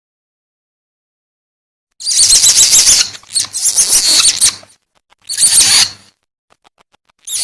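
Civet (musang) lure call: loud, high-pitched squealing cries with a rapid flutter. After two seconds of silence come three bouts of about a second each, then a short one near the end.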